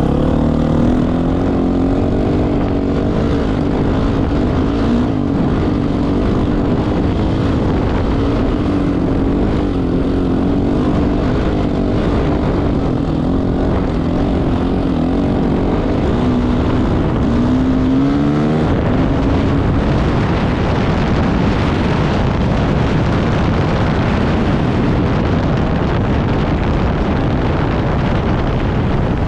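Off-road motorcycle engine running under way, its pitch wavering with throttle and sweeping up in a couple of quick revs about 17–18 seconds in. In the second half the engine tone gives way to a steadier rushing noise, like wind on the microphone.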